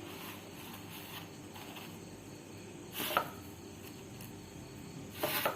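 Faint rubbing and rustling of a momo being rolled and pressed in dry bread crumbs, with two brief scrapes about three seconds in and near the end.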